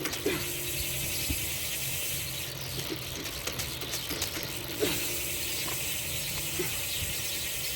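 Wheel of an upside-down bicycle spinning, with a steady mechanical ratcheting sound.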